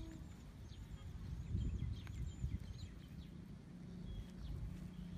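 Quiet outdoor ambience: small birds chirping in short, high calls, over a low rumble.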